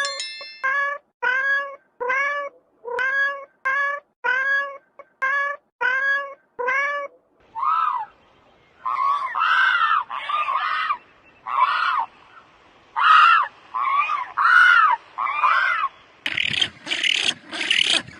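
Animal calls in three runs. First comes a quick series of about a dozen short, identical calls, roughly one every half second, each rising and falling in pitch. Then comes a slower run of longer, higher calls with gaps, and near the end a denser, noisier stretch.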